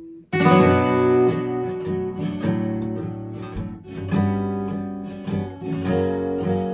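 Acoustic guitar playing strummed chords in an instrumental passage without singing. After a brief gap at the start, the chords come in suddenly and loudly, then change about once a second.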